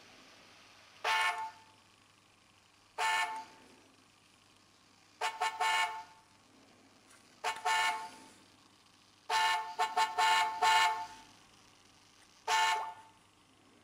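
A car horn honking in a series of short blasts, some single and some in quick runs of two to five toots, with pauses of a second or two between groups.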